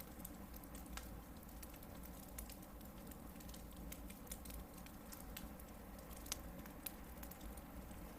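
Hardwood firewood burning in a campfire, crackling with irregular sharp pops over a low steady rumble; one louder pop about six seconds in.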